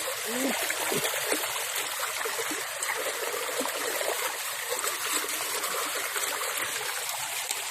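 Floodwater running steadily with a trickling stream-like rush and a few faint gurgles.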